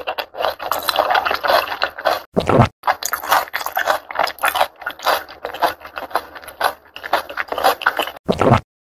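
Loud, continuous crunching and chewing of crisp food, like pretzels being bitten and eaten. It breaks off briefly about two and a half seconds in and again near the end.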